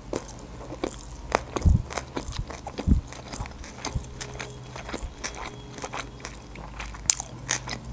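Close-miked chewing of a sushi roll with the mouth closed: soft, wet mouth clicks and smacks throughout, with a few louder ones between about one and three seconds in.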